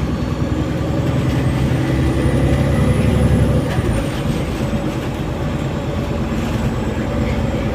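Bus engine and drivetrain heard from inside the cabin, pulling harder and louder for the first three and a half seconds, then easing off. A faint high whine rises and falls over the rumble.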